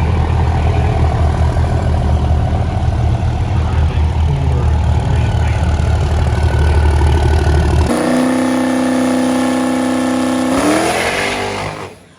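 High-horsepower diesel race truck making a pull on a chassis dyno: a heavy rumble under load, then about eight seconds in a clear engine note that climbs steadily in pitch, rises sharply near the end and cuts off abruptly.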